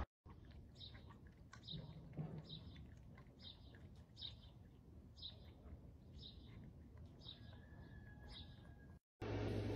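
A small bird chirping faintly in the background: short, high chirps repeated at an even pace of roughly one a second.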